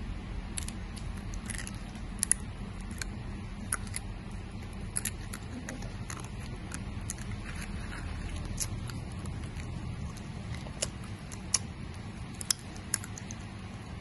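Close-up chewing of dried banana: scattered wet mouth clicks and smacks at an uneven pace, over a steady low hum.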